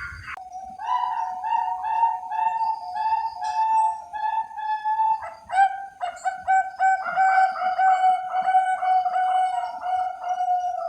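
Zebra doves (perkutut) cooing: runs of short, flute-like notes about three a second, with a new run starting about five and a half seconds in.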